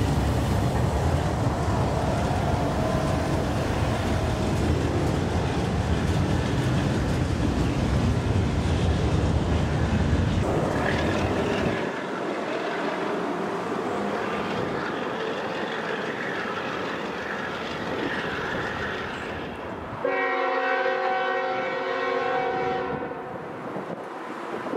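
Freight train passing: the deep rumble of its CSX GE diesel locomotives for about the first ten seconds, then the lighter rolling and rattling of the freight cars as the train pulls away. About 20 seconds in, another train's multi-note air horn sounds steadily for about three seconds.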